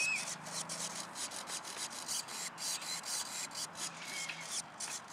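Footsteps with rustling and rubbing, an irregular run of short brushing strokes, several a second, as a person walks away.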